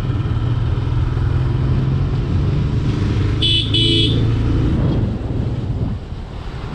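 TVS Apache RTR 160's single-cylinder engine running steadily under way, with a horn giving two short toots about three and a half seconds in. The engine eases off for a moment near the end.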